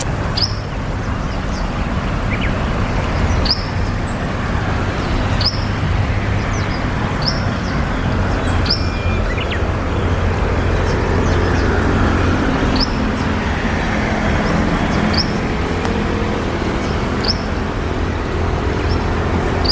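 Steady low rumble of road traffic, with short, high, downward chirps from a small bird about every two seconds.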